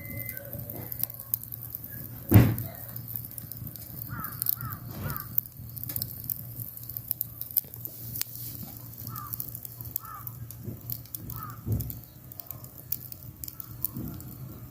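Crows cawing: two runs of about three short, falling caws, the first about four seconds in and the second near the ten-second mark. A single loud knock about two seconds in is the loudest sound.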